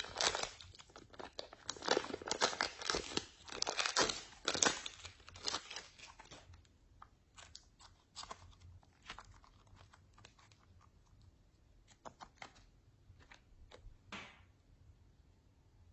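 Slime being worked by hand, giving sticky crackling and popping: dense for about the first six seconds, then thinning to scattered clicks and pops.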